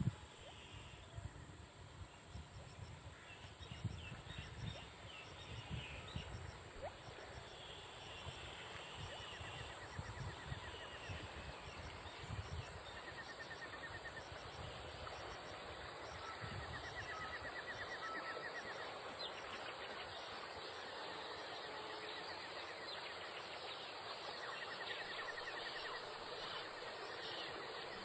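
Outdoor ambience with faint bird calls, among them several short rapid trills, over a steady high-pitched hum. Wind buffets the microphone in the first half.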